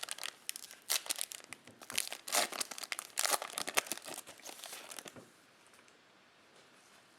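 Foil wrapper of a Topps Chrome baseball card pack being torn open and crinkled: a run of crackling rustles that stops about five seconds in.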